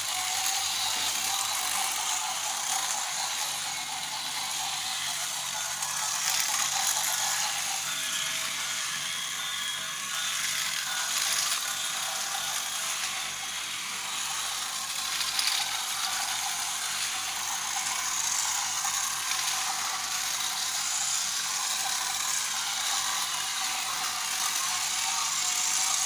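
Battery-powered Thomas & Friends toy train running on plastic track: a steady whir from its small geared motor, with faint ticking throughout.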